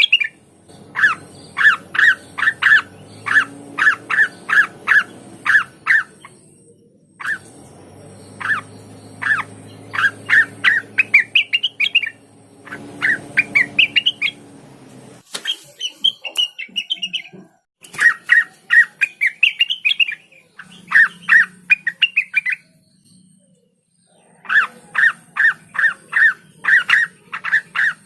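Cucak wilis (rengganis) calling loudly in rapid runs of sharp, repeated notes, several a second, some phrases rising in pitch, with short pauses between bursts. A low hum sits beneath parts of it.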